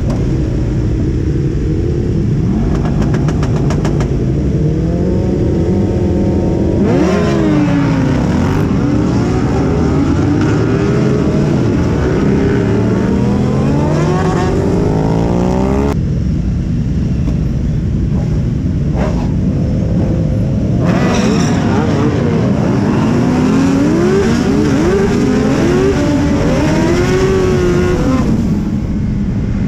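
Suzuki Hayabusa streetfighter's inline-four engine heard from on board while riding. The engine note climbs in repeated rising sweeps through the gears, drops off abruptly about halfway through, then pulls up again through a few rising shifts before settling near the end.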